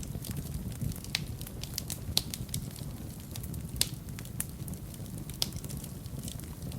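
Fire burning in a fireplace, crackling with irregular sharp pops, a few louder than the rest, over a low steady rumble.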